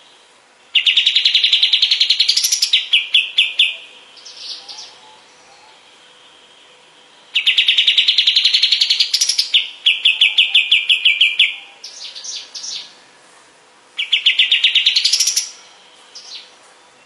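Kapas tembak songbird singing three loud phrases. Each is a fast, rattling trill of repeated notes that rises in pitch toward its end, then breaks into a few slower notes.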